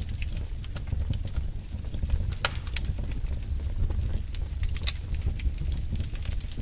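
Wood fire in a fireplace crackling, with irregular sharp pops (one louder pop about two and a half seconds in) over a steady low rumble.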